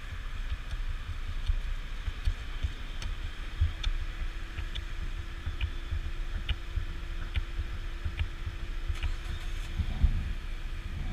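Riding noise from a Honda PCX scooter on the move: wind rumbling and buffeting on the microphone, with scattered light ticks. A faint steady hum joins about three and a half seconds in.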